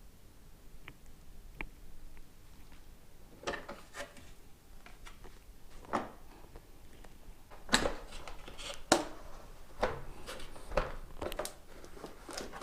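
Vacuum cleaner box and packaging being handled during unboxing: scattered knocks, clicks and short rubbing rustles, busier after a few seconds, with the sharpest knocks about eight and nine seconds in.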